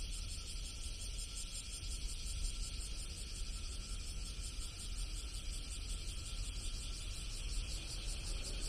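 Steady high shrilling of insects with a fast, even pulse, over a low steady rumble.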